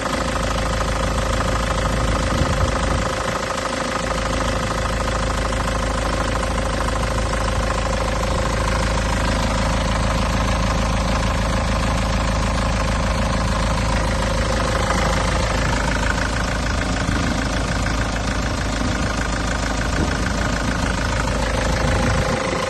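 Iveco Daily 65C18 diesel truck engine idling steadily. A higher whine joins in for several seconds after the middle.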